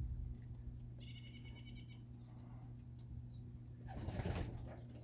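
Sounds at a pigeon loft: a short, high, pulsing trill about a second in, over a steady low hum. About four seconds in comes a louder rustling burst, like a pigeon's wings flapping.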